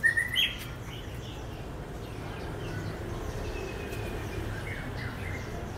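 Short bird chirps, loudest right at the start, with a couple of faint ones about five seconds in, over a steady low background noise.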